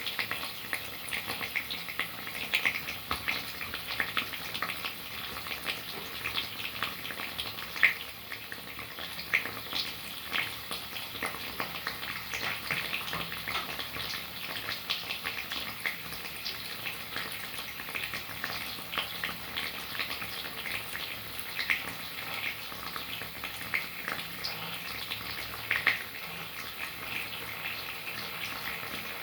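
Rain falling steadily, a continuous hiss with many irregular drops tapping close by, and a few louder drops now and then.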